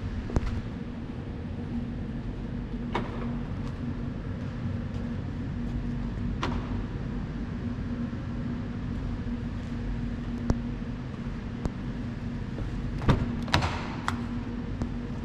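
Hyundai i20 N's engine running at a steady, even speed, with scattered sharp clicks and a louder clatter of clicks near the end.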